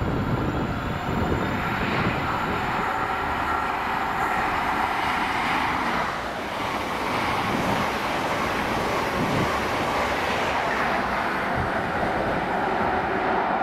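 A train passing through a station: a loud, steady noise throughout, with a brief dip in loudness about six seconds in.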